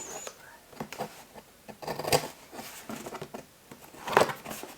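A cardboard parcel box being handled and opened: scattered scrapes and taps, with a few sharper knocks about a second, two seconds and four seconds in.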